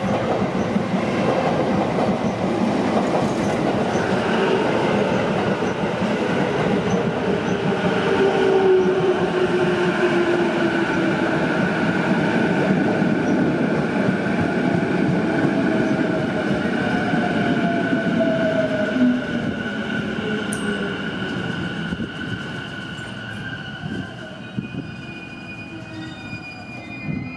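Sotetsu 11000 series electric train rolling past alongside the platform and braking to a stop. The wheels rumble on the rails, a whine from the traction motors falls in pitch as it slows, and a steady high squeal runs above it. The sound dies away as the train halts, and there is a short click near the end.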